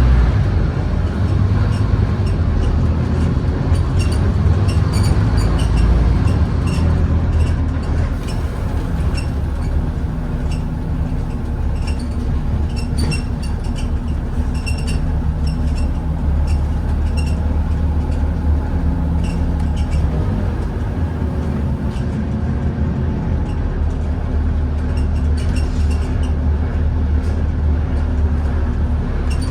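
Scania N230UD Omnicity double-decker bus heard from on board: the diesel engine runs steadily, its rumble rising and easing a little as the bus drives, with frequent small rattles and clicks from the body and fittings.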